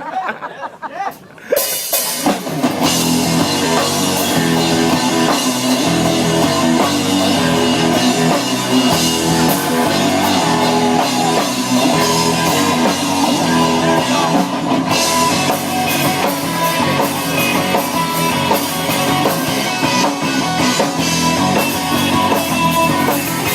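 Live rock band starting a song: drum kit and guitar kick in suddenly about a second and a half in and play on loudly.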